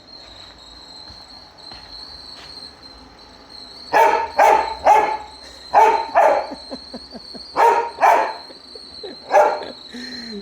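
Dog barking at a running robot vacuum cleaner: about eight sharp barks, several in quick pairs, beginning about four seconds in.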